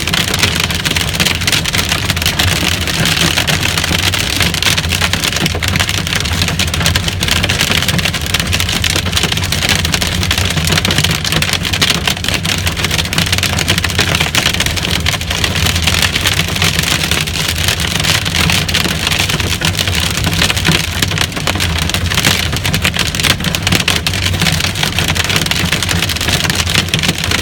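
Hail and heavy rain drumming on a vehicle's roof, heard from inside the cabin as a dense, steady rattle of countless small impacts over a low rumble from the vehicle.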